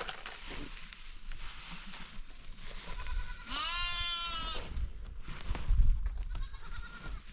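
A goat bleats once, a long call of about a second that rises at the start. A fainter, shorter bleat follows a couple of seconds later.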